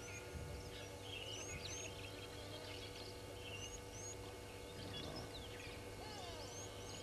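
Several wild birds calling, with scattered short high chirps and whistles, some rising, over a steady low electrical hum.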